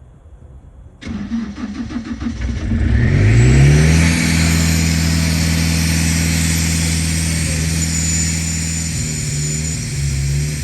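An engine starts up about a second in: a few seconds of quick, even cranking pulses, then it catches and revs up, and it runs at a steady speed with a loud hiss over it before cutting off at the very end.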